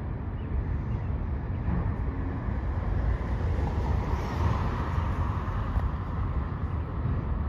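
Autorack freight train rolling past: a steady rumble and rush of wheels on rails that swells a little about halfway through.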